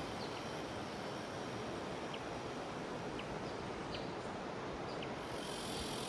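Steady rushing of a jungle river under a high cicada chorus. The cicada buzz thins out and comes back in about five seconds in, and a few brief high chirps sound over it.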